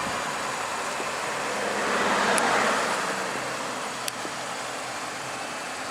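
Road traffic on a busy main road: a vehicle passes, its noise rising to a peak about two seconds in and then fading away.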